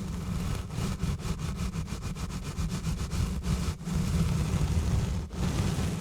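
Exfoliation gloves rubbing and scratching directly on a bare microphone: a deep rumble from the contact with the mic, with rapid scratchy strokes over it and brief pauses between passes.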